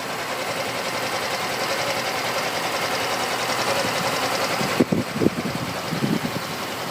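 Yamaha Axis Z scooter's 125 cc single-cylinder Blue Core fuel-injected four-stroke engine running at a steady idle. It briefly dips about five seconds in, and a few short low thumps follow.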